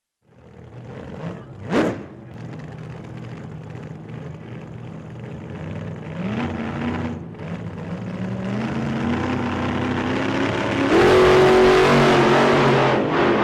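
Racing car engines running and accelerating, the pitch climbing in steps, with a brief sharp sound about two seconds in. The engines grow louder and are loudest from about eleven seconds in.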